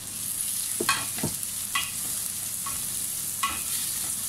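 Onion, ginger and garlic sizzling in hot oil in a stainless steel pan, while a spatula stirs them, scraping and knocking against the pan about five times.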